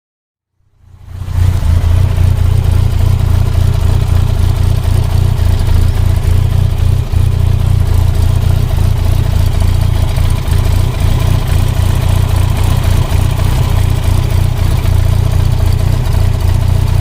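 Autobianchi A112 Abarth's small four-cylinder engine and exhaust running steadily with a strong low drone, fading in about a second in.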